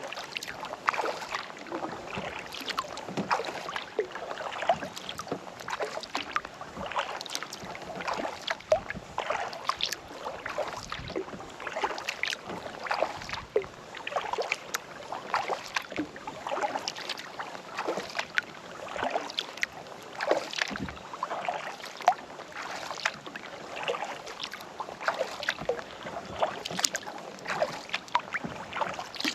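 Kayak paddle strokes: the blades dip and pull through calm lake water again and again, with drips and small splashes between strokes.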